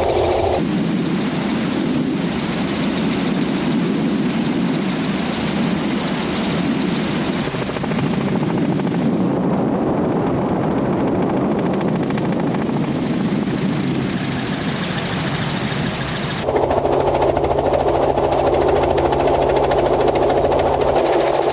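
Helicopter in flight, heard from on board: a steady, loud engine and rotor drone with a hum of low tones. The sound changes abruptly about half a second in and again near the end.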